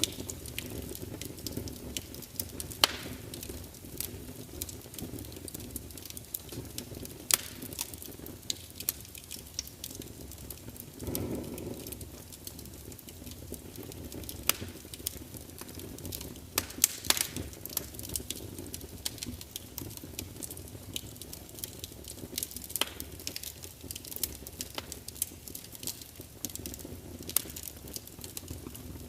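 Wood fire burning in a large fireplace: a steady low rumble of flames with irregular sharp crackles and pops from the logs, thicker for a couple of seconds past the middle.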